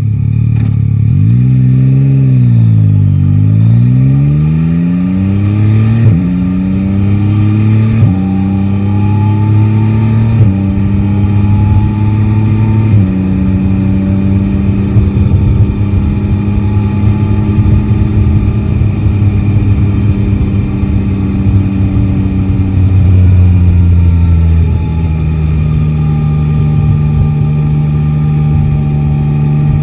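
Yamaha Tracer 9 GT's 890 cc inline three-cylinder engine, heard from the rider's seat. The revs dip and climb again, then it accelerates through four quick upshifts, each a rising pitch that drops suddenly at the shift. It then holds steady revs and eases off to a lower, steady note near the end.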